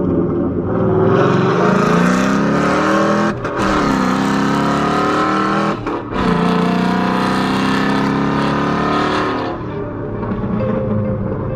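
Car engine accelerating hard through the gears: its pitch climbs, drops back at two quick upshifts, climbs again, then eases off near the end.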